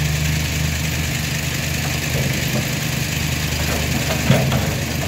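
A vehicle engine idling steadily, with a brief knock about four seconds in.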